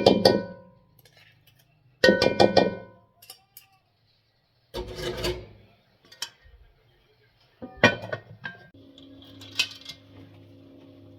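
Metal cookware and utensils clinking against each other in a few separate clatters about two seconds apart, the first two leaving a short metallic ring. A faint steady hum comes in near the end.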